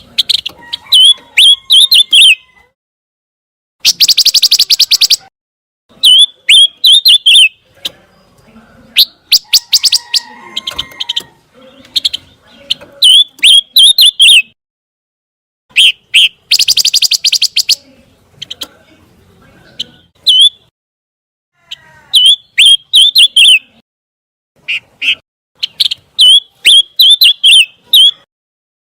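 Recorded song of a pancawarna songbird: short phrases of sharp, quick chirps repeated every few seconds, with two fast rattling trills, about 4 seconds in and about 16 seconds in.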